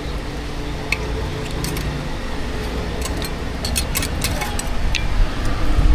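Busy street-stall background: a steady low rumble with irregular sharp clicks and clinks, most of them bunched together around three to four seconds in.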